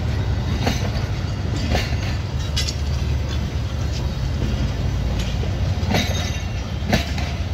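Passenger coaches of a train rolling past at close range: a steady rumble of steel wheels on the rails, with sharp clacks about every second and a pause in them midway.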